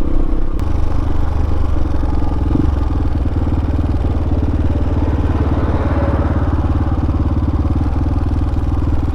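Hawk 250 dual-sport motorcycle's single-cylinder engine running at a steady speed while riding a loose, freshly graded dirt road.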